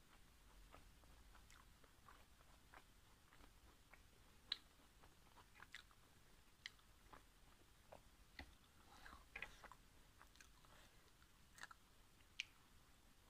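Faint chewing of steamed pork momos, with scattered soft, sharp mouth clicks, the sharpest about four and a half seconds in and again near the end.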